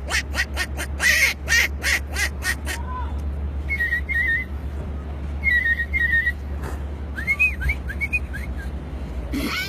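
A man imitating animal calls with his mouth: a fast run of short, sharp sounds for the first three seconds, then whistled bird-like calls with short trills and swooping notes.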